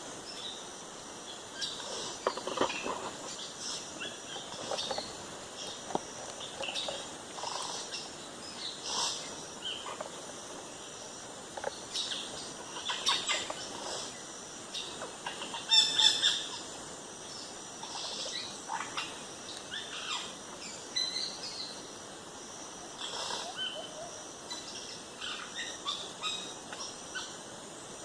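Wild birds calling and chirping in short, irregular bursts, loudest about two-thirds of the way through, over a steady background of forest insects.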